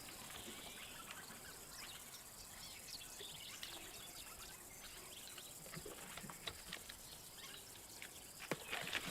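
Faint bush ambience: scattered short bird chirps and small ticks over a low hiss, with a few louder clicks near the end.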